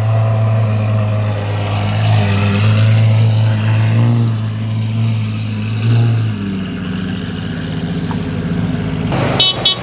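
Lamborghini Aventador SVJ's V12 engine running in a steady low rumble as the car pulls away slowly, dropping off after about six seconds. A few short sharp clicks come near the end.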